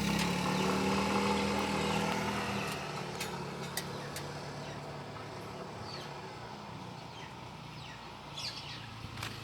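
A motor vehicle engine running with a steady hum, louder at first and fading after about two and a half seconds, with a few sharp clicks after that.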